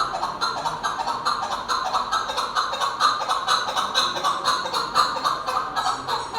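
Chukar partridge calling: a fast, steady series of short clucking notes, about five a second.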